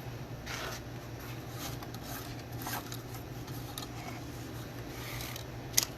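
Rustling and light scraping as hook-up wire and small parts are handled at a workbench, with a sharp click near the end, over a steady low hum.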